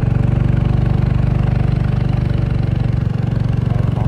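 A small engine idling steadily, with a fast, even chugging pulse.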